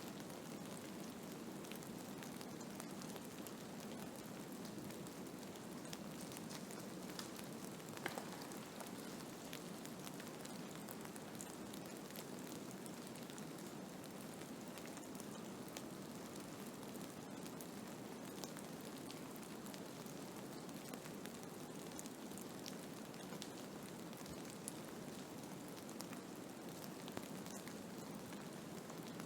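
Blizzard ambience: a steady, even hiss of wind-driven snow with faint scattered ticks, and one slightly sharper tick about eight seconds in.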